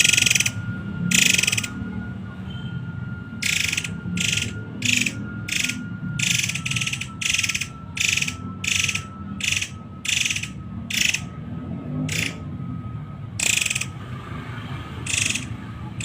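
Murai air bird giving rapid-fire harsh, rattling call notes in short bursts, about one or two a second, over a faint steady tone.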